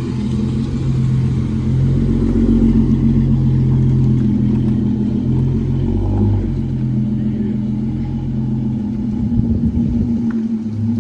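A vehicle engine running with a steady low hum, getting louder about two seconds in and briefly dropping away near the end.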